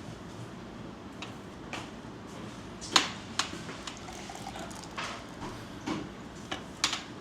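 Scattered clinks and knocks of dishes and cutlery over a steady background hiss, the sharpest knock about three seconds in.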